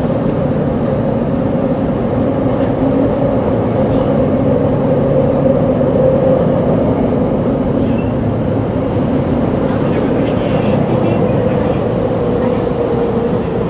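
Running sound of a Tokyo Metro 7000 series subway car with Hitachi IGBT-VVVF traction: a steady rumble of wheels on rail with a steady motor hum. The hum drops slightly in pitch near the end.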